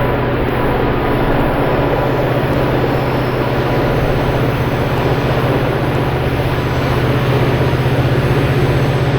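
EMD GT26CW diesel-electric locomotive's two-stroke V16 diesel running at full notch, a loud steady engine rumble with a rapid low pulsing under it.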